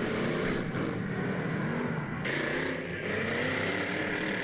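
Demolition derby car engines revving, rising and falling in pitch, with a steady higher hiss coming in about halfway through.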